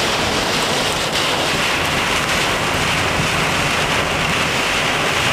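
Storm-force wind gusting around 50 knots with rain, a steady loud rushing noise with the wind buffeting the microphone.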